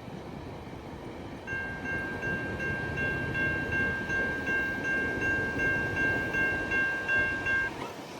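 A railroad bell dinging rapidly, about two to three strikes a second, over the rumble of a train. The bell starts a second or so in and stops abruptly near the end.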